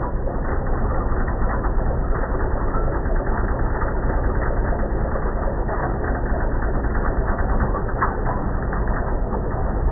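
Tractor engine running steadily, a constant low rumble.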